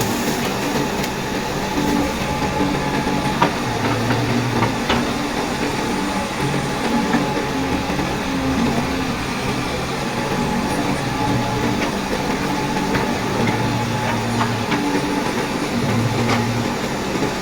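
A vehicle engine running steadily, with its low hum shifting pitch every few seconds.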